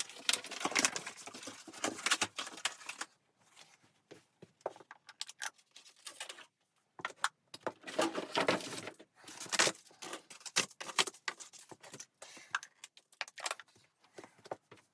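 Irregular clinking, rattling and rustling of gear being handled, in clusters with short pauses.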